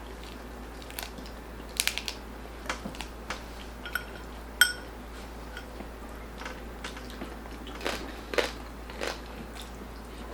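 Close-up biting and chewing of crispy roast pork belly (lechon belly), with irregular crunches that come in clusters, the loudest near the end. There is a short ringing clink about four and a half seconds in.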